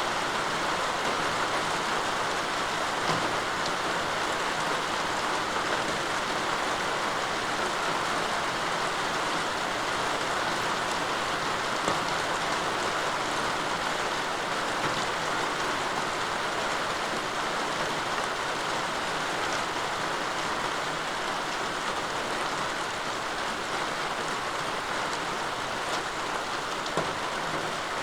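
Steady rain falling, an even hiss with a few separate drop clicks now and then.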